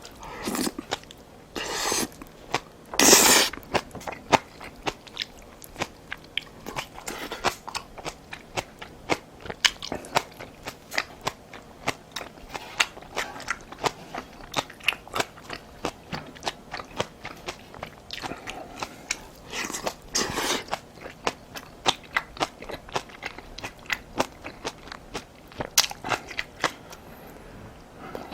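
Close-miked eating of spicy braised monkfish (agujjim): chewing and crunchy bites with many quick wet mouth clicks. A few longer, louder noisy bursts come about three seconds in and again past the middle.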